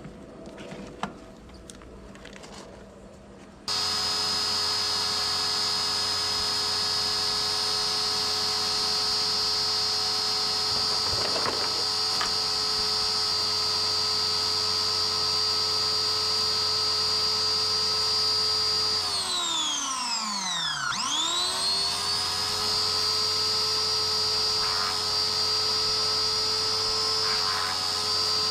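Pressure washer starts abruptly a few seconds in and runs with a steady high whine from its motor and pump. About twenty seconds in, the pitch sweeps down and climbs back up as the motor slows and picks up again.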